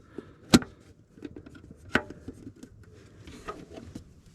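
Two sharp knocks about a second and a half apart, among light clicks and rustling: metal brackets and sheet metal being handled and set in place while their positions are marked.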